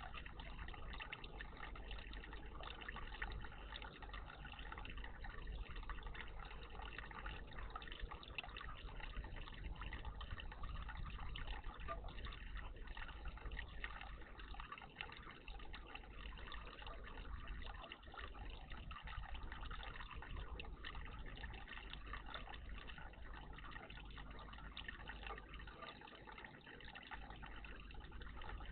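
Running water trickling and splashing steadily in a garden bird bath.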